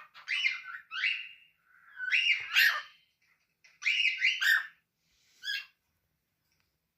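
Cockatiel whistling in short, quick rising phrases, about four bursts, stopping about a second before the end.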